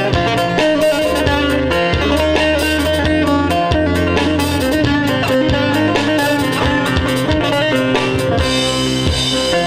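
Instrumental Turkish folk (türkü) music played live: fast plucked-string melody over a steady drum beat.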